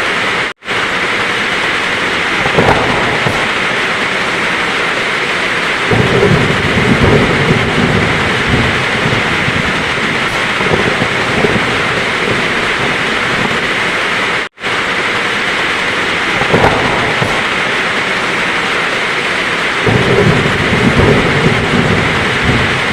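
Heavy rain falling steadily with rolls of thunder, a low rumble swelling about six seconds in and again near the end. The sound cuts out for an instant twice, just after the start and about halfway through, where the looped recording restarts.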